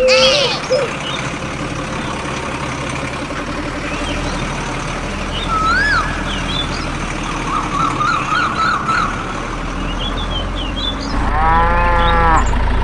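Steady hum of a miniature tractor's or thresher's small electric motor, growing louder about four seconds in and again near the end. Short bird chirps sound throughout, and a cow moos once about eleven seconds in.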